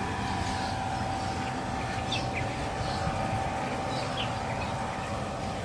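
Small birds chirping in short, falling calls every second or so over a steady outdoor rumble with a constant hum.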